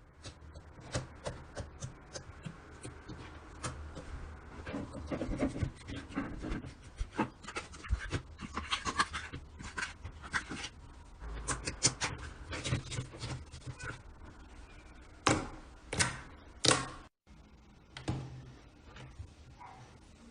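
Slime being squished and kneaded by hand, making a dense run of irregular wet clicks and crackles as small air pockets pop. Three louder pops come in quick succession near the end.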